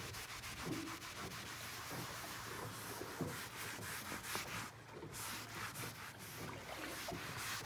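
Repeated rubbing strokes on a vinyl boat seat as the foamed-up mold and mildew cleaner is wiped off, with a brief pause about five seconds in.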